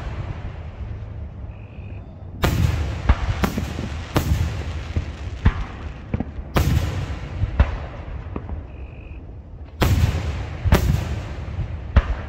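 Aerial fireworks shells bursting overhead: about a dozen sharp booms at uneven spacing, roughly one a second, each trailing off in a low rumble.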